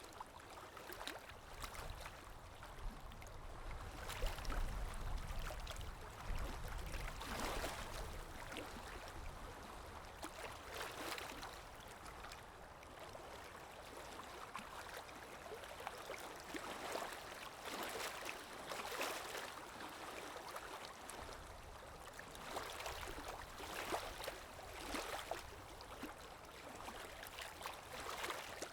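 River water lapping and gurgling, with irregular small surges of splashing. A low rumble comes in a few seconds in and fades a few seconds later.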